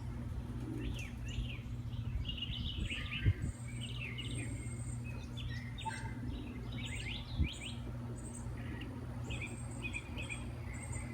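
Several small birds chirping and trilling in quick short calls, some very high-pitched, over a steady low rumble. Two brief thumps stand out, about three seconds in and again near seven and a half seconds.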